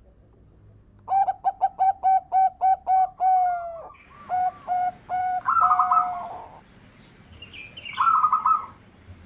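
Zebra dove (perkutut) singing. A quick run of short staccato cooing notes, about four a second, starts about a second in. A few longer notes follow, and a shorter burst comes near the end.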